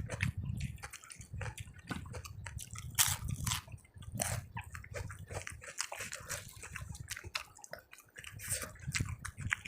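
Close-miked chewing and wet mouth sounds of someone eating rice with soya kofta curry, a quick irregular run of smacks and clicks with a low rumble beneath.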